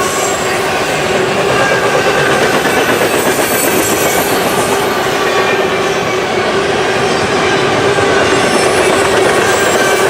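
Freight train cars rolling past on steel wheels, a loud steady rumble with a held mid-pitched tone and faint high wheel squeals.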